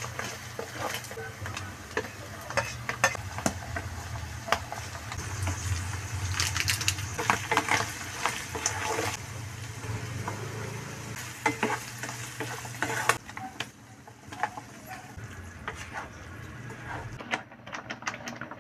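Ground meat and sliced hotdogs sizzling in a non-stick frying pan while a spatula stirs them, clicking and scraping against the pan at irregular intervals. About two-thirds of the way through the sizzle cuts off suddenly, leaving quieter stirring clicks.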